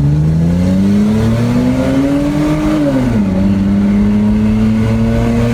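Hyundai Azera V6 with an exhaust diffuser accelerating hard from a pull-away: the engine note climbs steadily for about three seconds, drops sharply once at a gear change, then climbs again.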